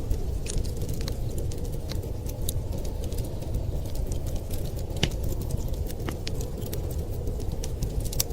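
Wood fire crackling, with sharp irregular pops, over a steady low rumble of winter storm wind.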